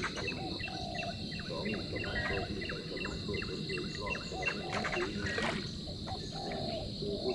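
Insects droning steadily in a high, even tone, while a bird calls a quick run of short falling chirps, about three a second, that stops about four and a half seconds in.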